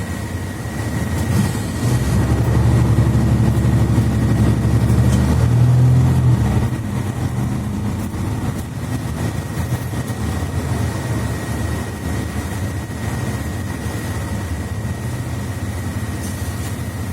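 Engine and Voith automatic gearbox of a Mercedes-Benz Citaro C2 articulated bus, heard from inside: the engine drone swells under load about two seconds in, pulls strongly for around five seconds, then drops back to quieter running. A thin steady high whine sits above it throughout.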